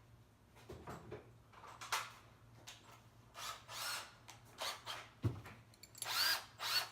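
Tools being handled and set up: scattered knocks and clicks with a few short scraping, rustling bursts.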